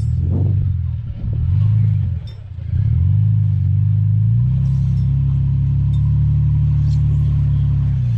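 Off-road vehicle engine running and revving. It dips briefly twice, rises in pitch about three seconds in, and then holds steady at higher revs.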